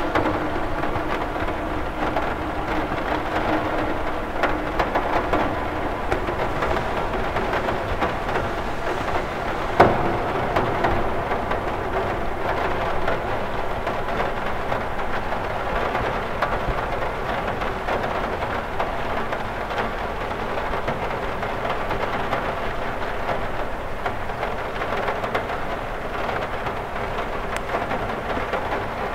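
Steady rain on a window: a dense, even patter of drops, with one sharper drop striking about ten seconds in.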